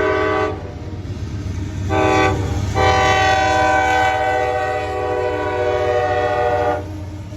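Multi-note train air horn sounding a chord: a blast ends about half a second in, a short blast comes about two seconds in, then a long blast of about four seconds. This long, short, long ending fits the close of the long-long-short-long grade-crossing signal. A steady low rumble runs underneath.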